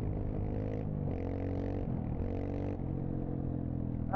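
Dirt bike engine running under way, its pitch stepping up and down a few times as the throttle changes, with short rushes of wind or tyre noise.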